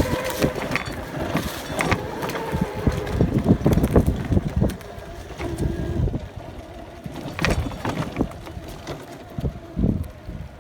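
Electric dirt bike riding over a rough trail: a faint motor whine under heavy wind buffeting on the microphone, with knocks and rattles from the bumps. About halfway through it gets quieter, as if the bike slows down.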